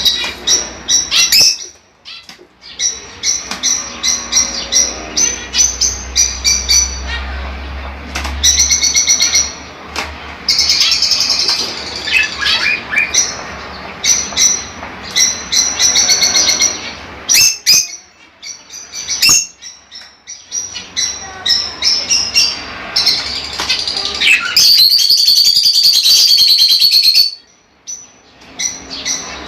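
Pet budgerigars chattering and warbling in quick, varied bursts, with a few sharp clicks. Near the end comes a louder, unbroken stretch of chatter about three seconds long.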